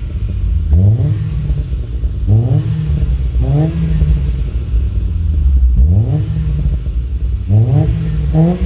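Hyundai Getz 1.1's four-cylinder engine through a Remus aftermarket exhaust, revved in about six quick throttle blips, each rising sharply and falling back to idle.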